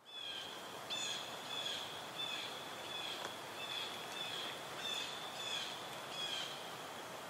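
A bird chirping over a steady hiss: short high notes repeated about every two-thirds of a second.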